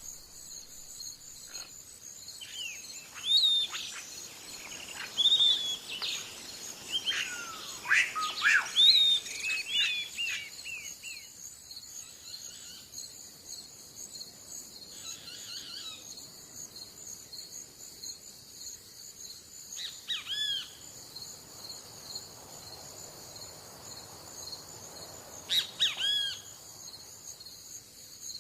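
Birds chirping and calling in short sweeping notes, in a busy cluster over the first ten seconds or so and then in two brief bursts later, over a steady high-pitched drone of insects.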